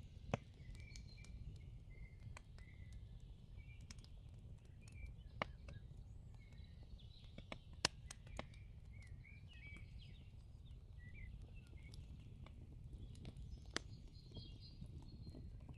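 Faint outdoor ambience: small birds chirping repeatedly, with scattered sharp clicks and a low steady background hum.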